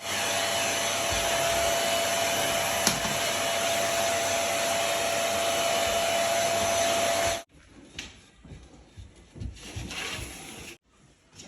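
Electric motor running steadily with a loud rush of air and a steady whine, like a vacuum cleaner, cutting off abruptly about seven seconds in. Quieter knocks and handling clatter follow.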